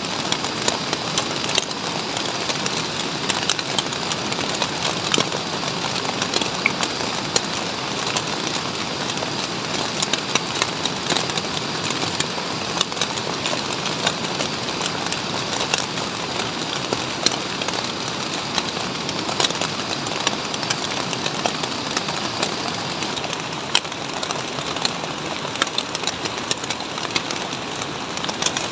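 Heavy rain falling steadily on a plastic sheet shelter, a dense hiss with many sharp drop hits.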